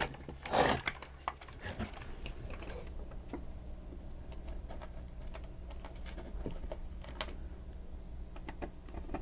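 Scattered light clicks and taps from small parts being handled on a workbench, over a steady low hum.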